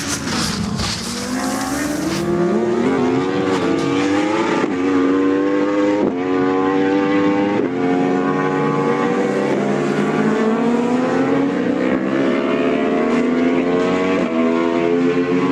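Racing motorcycle engine at full throttle on track, its pitch climbing steadily and dropping sharply at each upshift, several times over, with a rush of noise in the first two seconds.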